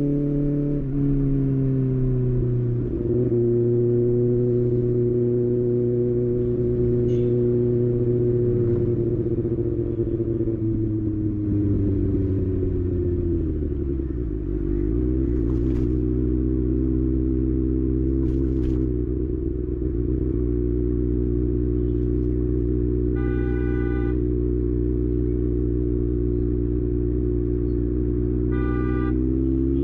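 Kawasaki ZX6R's inline-four engine running at low revs, its pitch dipping and rising slowly with the throttle. Two short vehicle horn honks come in the later part.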